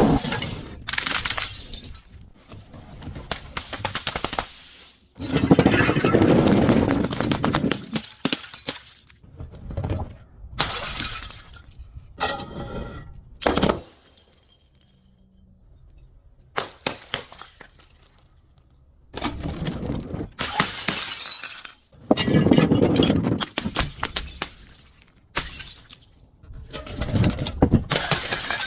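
Glass shattering and crunching as it is crushed, in a series of separate breaks with a quieter stretch about halfway through.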